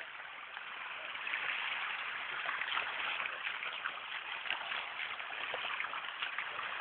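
Water rushing and splashing steadily, with many small crackling splashes, getting louder about a second in.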